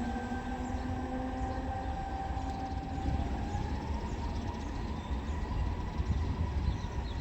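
Electric train running through the station: a low rumble with several steady electric whines, one of which rises in pitch about three to four seconds in.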